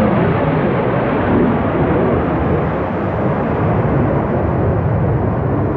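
Low-flying jet aircraft passing overhead: a loud, continuous thundering rumble whose higher frequencies slowly fade as it moves away.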